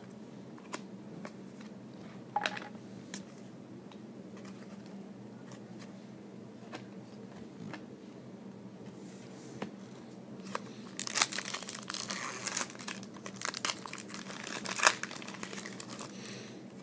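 Trading cards being handled with a few scattered light clicks, then a foil trading-card pack wrapper crinkling and tearing open for several seconds, starting about two-thirds of the way through.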